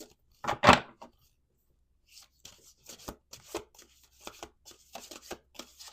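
An oracle card deck being shuffled by hand: a louder brush of cards about half a second in, then from about two seconds a quick run of soft card snaps and rustles.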